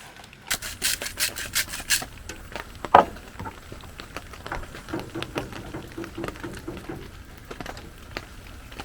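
A quick run of rasping, rubbing strokes, about five a second for roughly a second and a half, then a single sharp knock about three seconds in, followed by scattered light clicks and taps.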